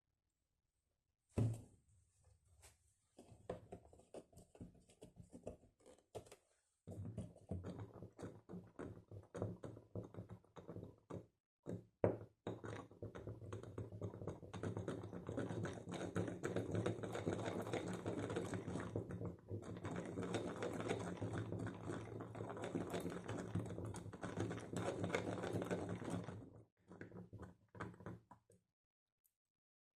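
Rapid, dense tapping and clicking with a steady low hum underneath, stopping and starting a few times before ending about four seconds before the end.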